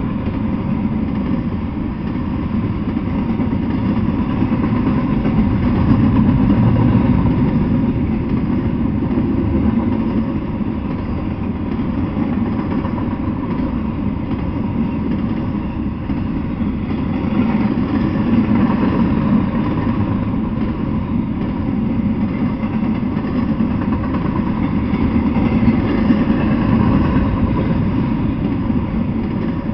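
Double-stack intermodal freight train rolling past, its wheels on the rails making a steady loud rumble that swells and eases slowly.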